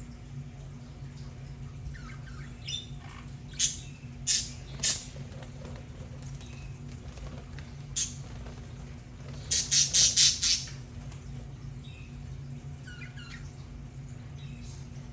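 Budgerigars (budgies) calling: soft warbling chirps with several sharp squawks, the loudest a quick run of about five squawks around ten seconds in. A steady low hum runs underneath.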